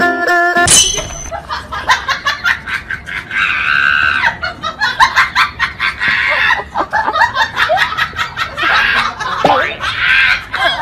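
A person laughing hard with high-pitched shrieks, over a rapid clicking rattle. The laughing starts about a second in, right after the music cuts off.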